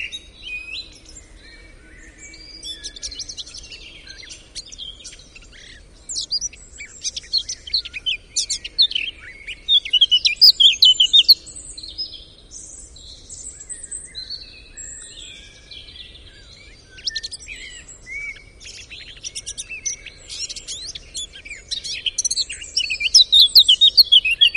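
Songbirds chirping and twittering in quick runs of high, fast-sweeping notes, busiest about eight to eleven seconds in and again near the end.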